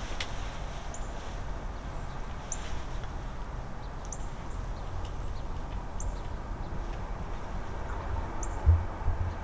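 A bird repeating a short, high call note every second and a half to two seconds, over a steady low rumble. A couple of soft low thumps come near the end.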